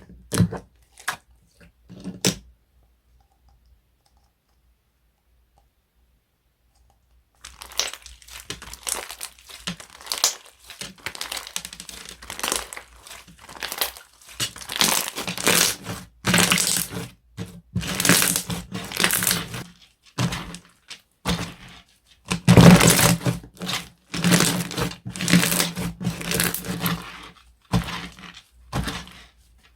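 Slime being squished, stretched and pressed by hand, making dense crackly, crinkly popping and clicking sounds. It stops for a few seconds of silence shortly after the start, then resumes.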